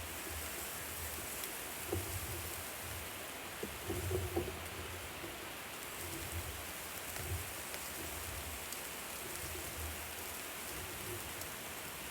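Food sizzling on a hot barbecue grill: a steady hiss with faint scattered crackles, over a low rumble.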